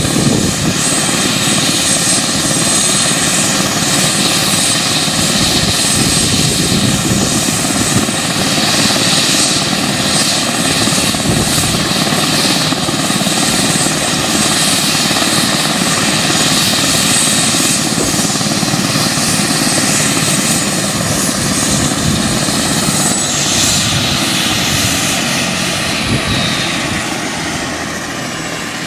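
Life Star medical helicopter's turbine engines and rotor running loud and steady, with a high turbine whine over the rotor noise. Near the end the sound fades and the whine drops in pitch.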